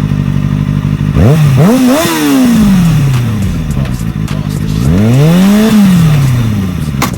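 Kawasaki Ninja ZX-6R inline-four idling through a newly fitted aftermarket exhaust can and being revved twice: a quick blip just after a second in that falls back to idle, then a slower rev that rises and drops back near the end. A sharp click just before the end.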